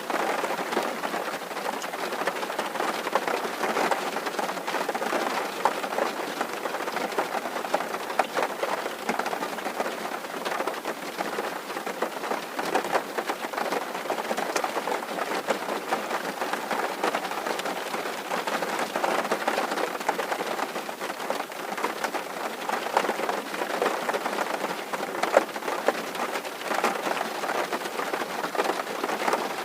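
Steady rain drumming on a tin roof: a dense, even patter of countless small drop impacts on the metal sheeting.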